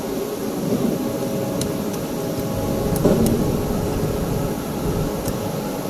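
Steady hum of running factory machinery, with a low rumble that swells in the middle and a few light, sharp clicks.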